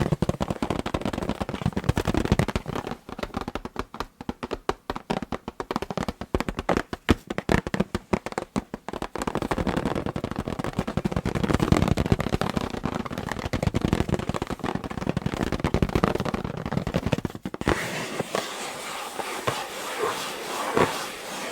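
Fingers tapping and scratching on an inflated rubber balloon: a run of rapid separate taps, then a denser, continuous scratching. About eighteen seconds in the sound turns suddenly thinner and brighter, losing its low thump.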